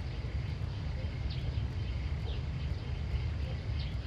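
Countryside ambience: short high chirps repeating about once a second over a steady low rumble.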